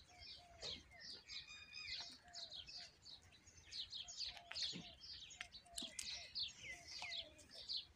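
Several small birds chirping in a dense chatter of short, high chirps, with some lower short notes mixed in.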